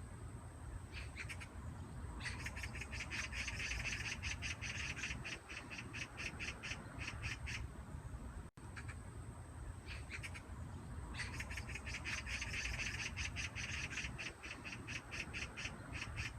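Magpie chattering: two long bouts of fast, harsh, rattling notes, about five a second, with a short break between them.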